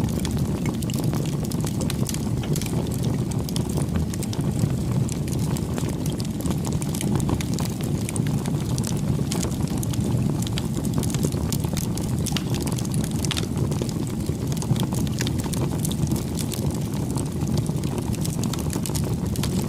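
Wood bonfire burning: a steady low rumble of flames with frequent small crackles and pops scattered throughout.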